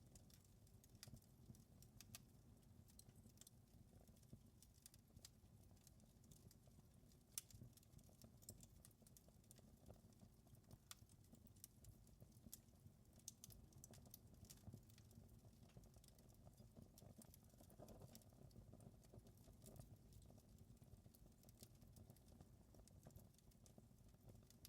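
Fireplace fire crackling softly: scattered small pops and snaps over a low, steady rumble, with one sharper pop about seven seconds in.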